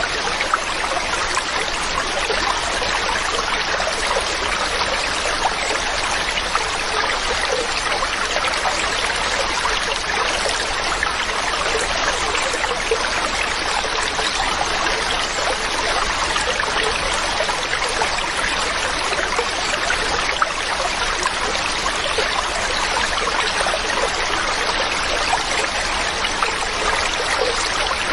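Mountain stream running steadily over rocks, a continuous rushing and babbling of water that stays level throughout.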